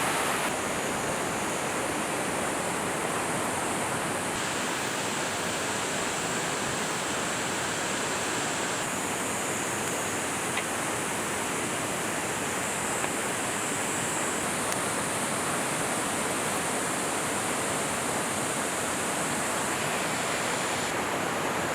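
A river running over rocks: a steady wash of flowing water whose brightness shifts abruptly a few times.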